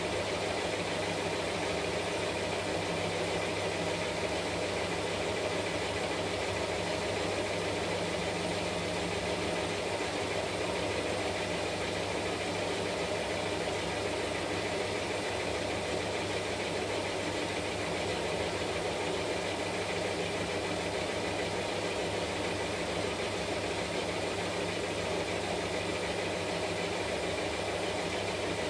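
Washing machine running steadily, a constant motor hum with a few fixed tones over an even whirring noise.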